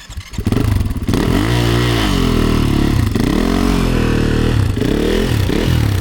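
Snowbike's 450 cc single-cylinder four-stroke dirt-bike engine catches about half a second in and is revved up and down several times.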